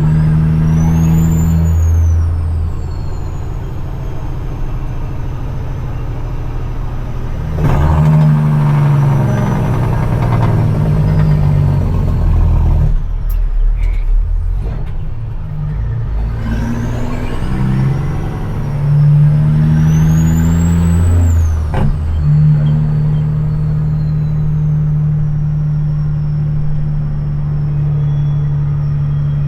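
CAT C-15 diesel in a dump truck running under load, with a high turbo whistle that rises and falls twice. About halfway through the engine drops off briefly, as on a gear change, then picks up again and settles into a steady drone near the end.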